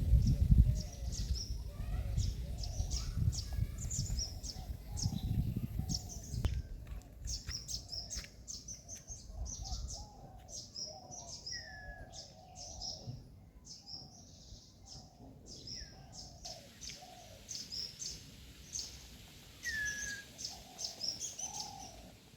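Several birds chirping and calling: rapid high chirps throughout, lower calls mixed in, and a short falling note three times. A low rumble sits under the first half.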